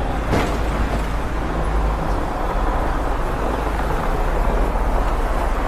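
Steady rumbling outdoor noise with a heavy low drone, and one sharp knock about a third of a second in.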